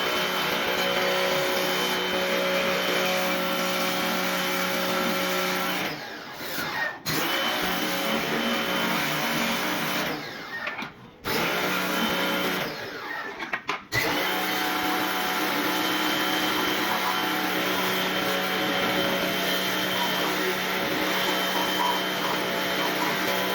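Electric motor-driven machine running steadily with a constant hum, its pitch sagging as it cuts out briefly three times, about six, ten and thirteen seconds in, then coming straight back up to speed.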